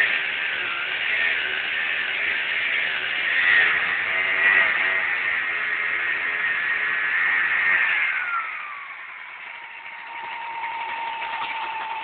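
Vyatka scooter's small two-stroke engine, fitted to a homemade winch, running at high revs with a wavering pitch, then dropping back about eight seconds in and settling to a steady lower note.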